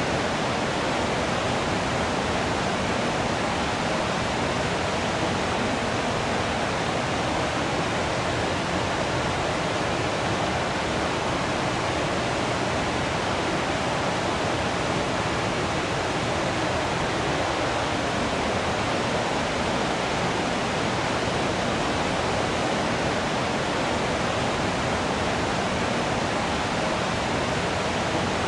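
Waterfall: water falling and rushing in a steady, unbroken hiss with no changes.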